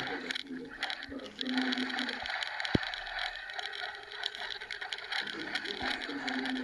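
Radio-controlled trophy truck driving, its motor running at changing pitch over the scrape of tyres on the ground, with one sharp knock a little under three seconds in.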